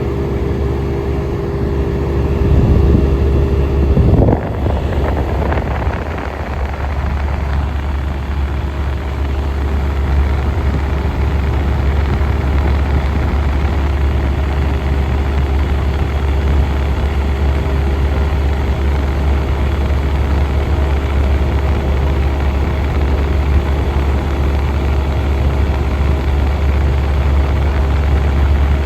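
1967 Chrysler Airtemp air conditioner running with a steady mechanical hum. About four seconds in the sound briefly changes, then settles back to the steady hum.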